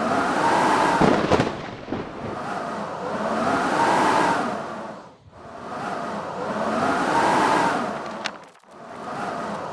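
Blizzard wind howling in gusts. Each gust swells and fades over about three seconds while its pitch rises and falls. A few sharp cracks sound about a second in and again near the end.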